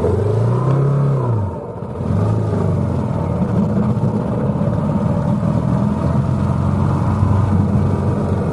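Vintage motorcycle engine running while riding: its pitch rises and falls away in the first second and a half, it drops off briefly, then it runs steadily again.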